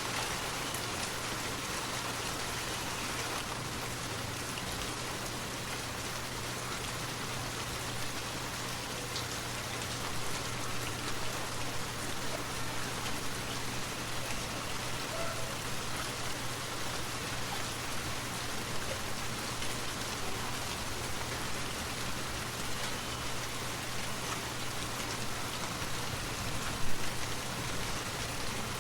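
Steady rain, a dense even hiss of falling drops. A single brief louder knock stands out near the end.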